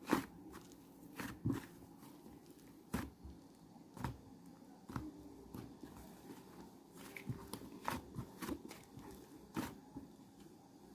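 Irregular soft clicks and light knocks, one to three a second, over a faint steady hum.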